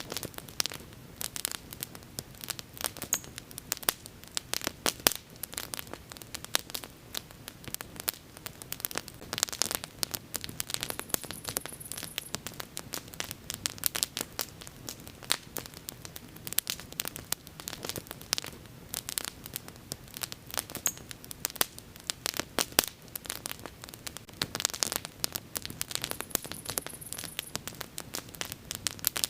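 Wood bonfire crackling: irregular sharp snaps, several a second, some louder than others, over a low steady rush of flames.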